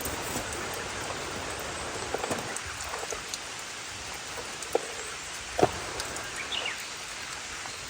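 Steady rain falling, with a couple of louder single drop impacts about five seconds in.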